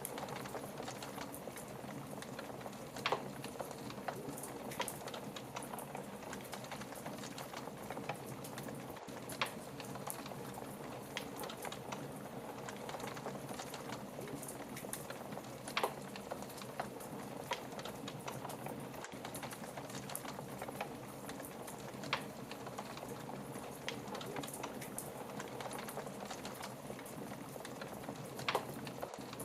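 Fireplace fire crackling: a steady soft hiss with frequent small pops and a louder snap every several seconds.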